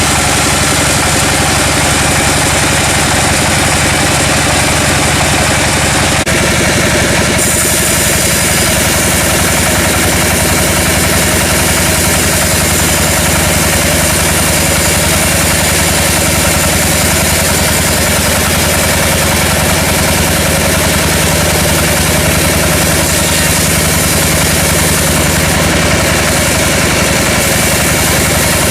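Sawmill machinery with its engine running steadily in a continuous drone, the sound changing abruptly about six seconds in.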